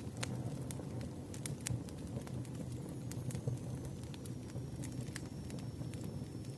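Campfire crackling: irregular sharp pops and snaps over a steady low hiss and rumble of burning wood.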